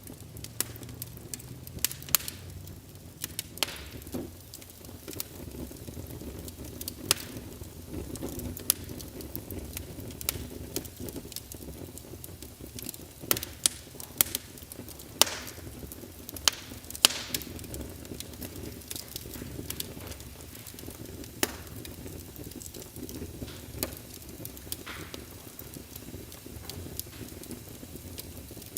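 Wood fire in a fireplace crackling: irregular sharp pops and snaps over a low, steady sound of burning flames. The loudest pops come a little past the middle.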